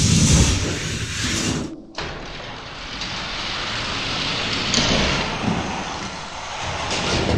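Die-cast toy cars rolling down a plastic drag-race track, a steady clattering rumble with small knocks. The sound cuts off abruptly about two seconds in and resumes.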